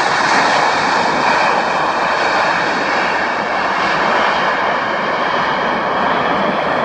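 Airbus A330-243 airliner landing, its Rolls-Royce Trent 700 jet engines a steady loud rush with faint high whining tones.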